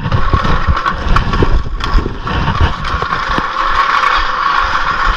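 Vehicle engine running steadily, with irregular low rumbling underneath.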